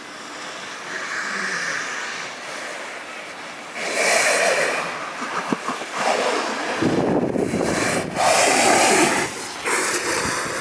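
Alpine snowboard carving on the slope: repeated swooshing surges of the board's edge, with wind noise on the microphone.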